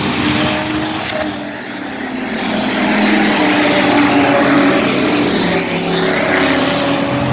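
A field of bomber-class stock cars racing under power on the restart, many engines running at once at varying pitch, growing louder about three seconds in.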